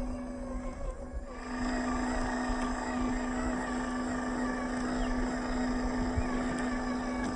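Small electric motor of an RC off-road car running with a steady whine, its pitch wavering slightly. It picks up again at about a second and a half in.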